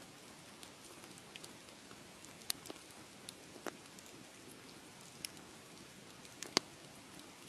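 Wood fire crackling: a steady soft hiss with irregular sharp pops and snaps, the loudest snap about two-thirds of the way through.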